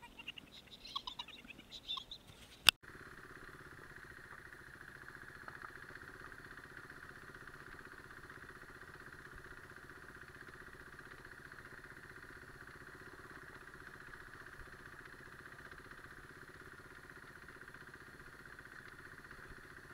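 A motorcycle engine running steadily without revving, heard from a handlebar-mounted camera. It starts after a sharp click about three seconds in; before the click there are only a few faint scattered sounds.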